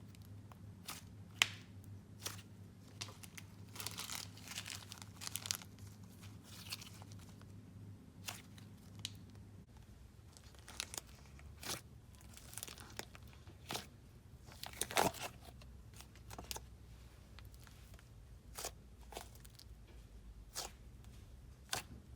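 Hands stretching, squishing and poking a soft clay slime, giving irregular small pops, clicks and crackles.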